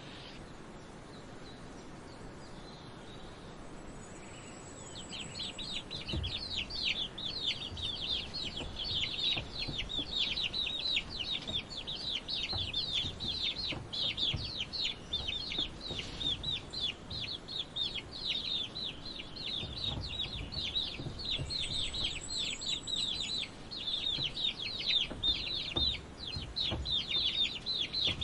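Many chicks peeping: a dense, continuous run of quick, high cheeps, each sliding downward in pitch, starting about five seconds in, with low clucks of chickens underneath.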